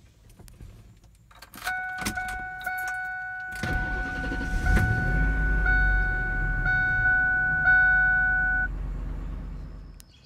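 A car's steady warning tone sounds. About three and a half seconds in, the engine cranks and starts, then runs with a low rumble. The tone cuts off about two seconds before the rumble fades.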